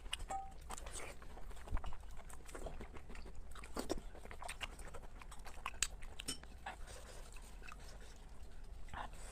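Close-up eating sounds: irregular chewing, biting and crunching with many short clicks and crackles.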